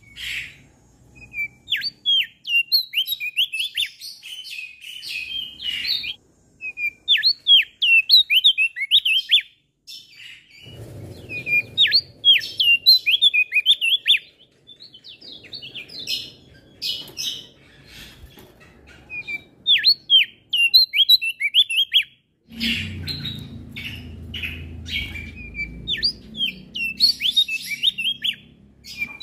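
Male opior jambul (Javan grey-throated white-eye) singing in rapid phrases of sharp, steeply falling chirps, the phrases broken by short pauses. A faint low rumble runs under some phrases.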